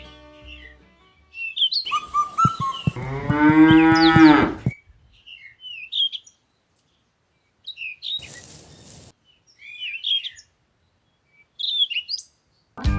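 A cow mooing once, a long call of about two seconds, with small birds chirping here and there. There is a short burst of hiss-like noise about eight seconds in.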